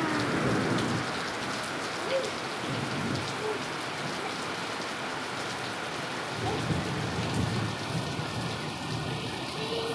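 Steady rain falling on a concrete yard, an even hiss.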